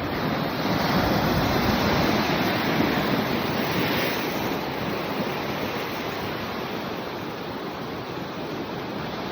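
Ocean waves breaking and washing on the shore, a steady surf that swells during the first few seconds and then slowly eases.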